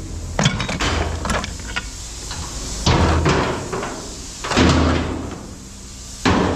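Pieces of scrap metal being tossed and clanking down, five or six heavy clangs a second or so apart, over a steady low hum.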